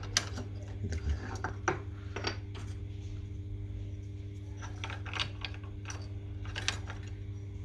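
Irregular light clinks and knocks of hard parts being handled, over a steady low hum.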